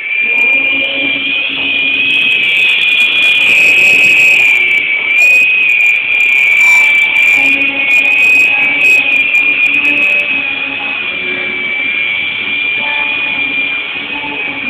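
Small electric motors and rotors of a 3-channel toy RC Apache helicopter in flight, a steady high whine that wavers slightly in pitch as the throttle shifts.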